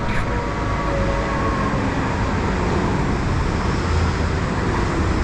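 Farm machine's engine running steadily, with a faint whine over the low drone.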